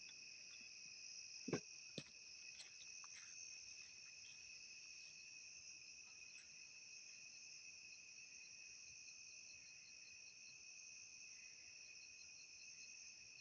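Faint, steady high-pitched night chorus of frogs from a nearby pond, with a faint pulsing call running through it. Two short knocks come about a second and a half in.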